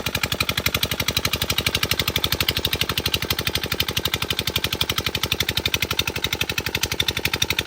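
Old engine running steadily to drive a water pump for field irrigation, with a fast, even beat of about ten pulses a second.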